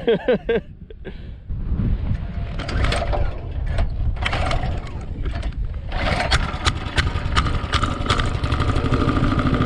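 Mini bike's small 220cc engine running, getting louder from about a second and a half in and settling into a steady drone near the end.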